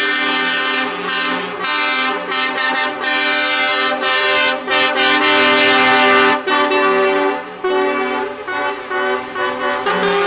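Truck air horns blaring, several sounding together, in long blasts broken by short gaps, with the pitch changing a few times.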